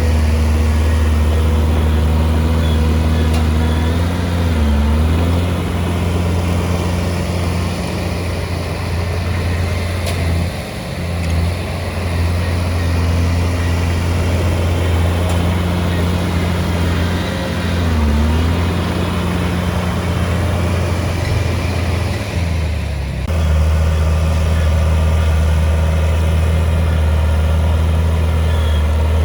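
Komatsu D31P bulldozer's diesel engine running steadily. Its pitch dips briefly twice, about five seconds in and again near eighteen seconds, as the engine takes load and recovers.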